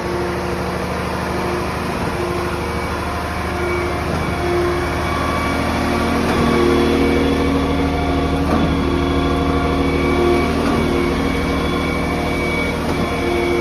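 Diesel engine of a Scania truck carrying a concrete pump, running steadily, with whining tones that come and go over the drone.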